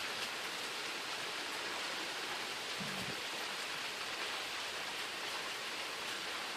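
Steady rain falling in a thunderstorm, an even hiss with no thunder.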